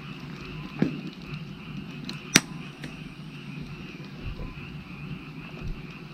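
Wood fire burning with scattered crackles and sharp pops, the loudest pop about two and a half seconds in, over a steady chorus of frogs.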